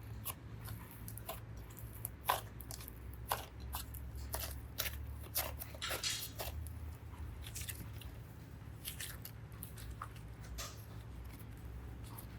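Faint crackles and small sticky clicks, irregular and scattered throughout, as soft modelling clay is pressed and handled, over a low steady hum.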